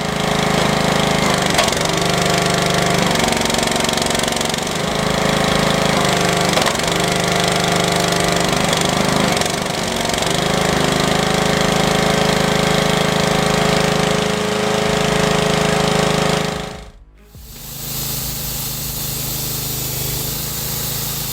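A small petrol lawnmower engine runs a homemade log splitter. Its steady note dips briefly every couple of seconds as it takes the load of a split, and music plays over it. The sound cuts off abruptly about 17 seconds in, and a different, quieter steady machine sound follows.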